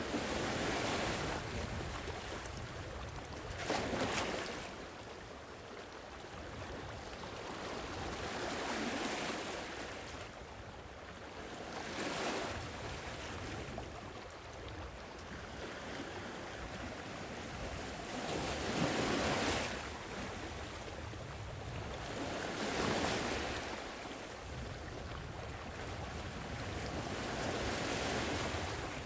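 Sea waves washing onto a shore, one swell of surf hiss after another every few seconds over a steady low rumble.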